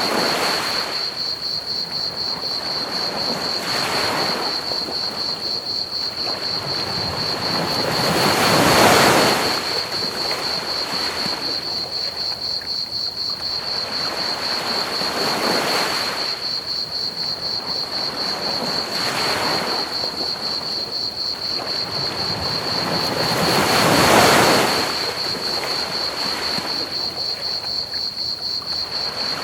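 Ocean waves washing onto a beach, a swell every few seconds with two larger breakers about nine and twenty-four seconds in. Crickets chirp steadily and evenly throughout, over an even hiss of pink noise.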